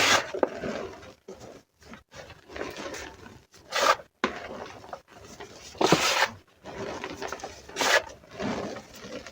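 Flower-shaped pieces of reformed gym chalk being crushed, crunching and crumbling into powder. Four louder crunches stand out among softer crackling and rubbing.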